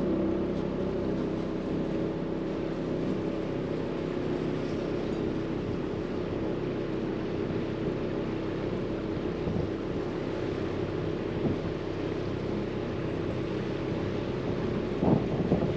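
Small fishing boat's engine running steadily under way, with water and wind noise around it. A few louder irregular knocks near the end.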